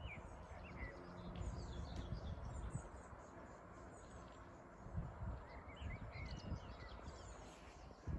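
Small birds chirping in short scattered calls, a few near the start and a cluster about two-thirds of the way in, over a low outdoor rumble.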